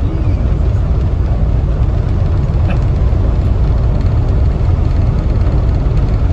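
Steady low rumble from the train on the track, an even noise with most of its weight in the bass.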